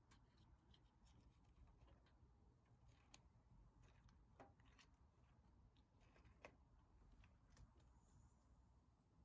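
Faint, irregular crackling of a wood fire burning in a fire pit: scattered small pops and snaps over near silence.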